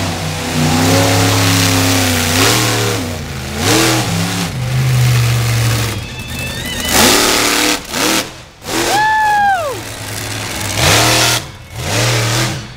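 Monster truck engine revving hard in repeated bursts, its pitch climbing and dropping with each throttle stab, with short lulls between. About nine seconds in, a brief high whine rises and then falls.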